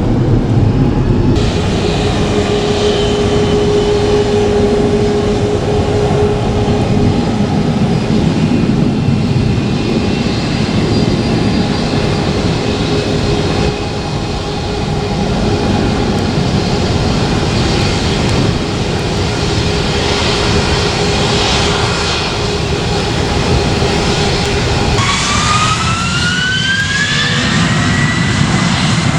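Jet airliner engines running, a steady rumble with a whining tone. Near the end a whine rises in pitch.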